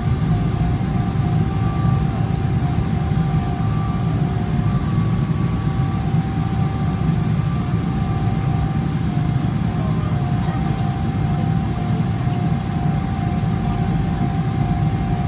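Boeing 777-300ER's GE90-115B engines running at taxi thrust, heard inside the cabin: a steady, even rumble with a constant whine on top.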